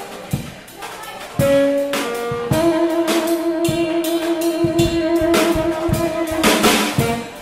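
Jazz band playing: a saxophone holds long notes over a drum kit, with guitar. It is quieter in the first second or so, and then a long sustained note runs from about two and a half seconds in until near the end.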